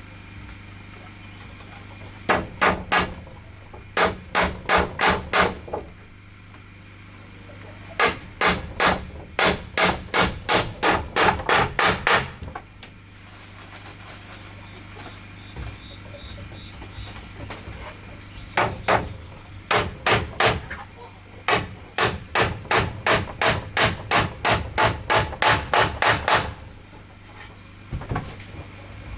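Hammer striking wood in runs of quick, even blows, about three a second, with pauses of a few seconds between runs.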